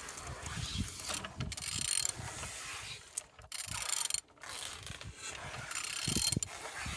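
A removed engine being turned over by hand, its crankshaft pulley and internals turning with a continuous mechanical whirr and small clicks, stopping briefly twice near the middle; it turns freely.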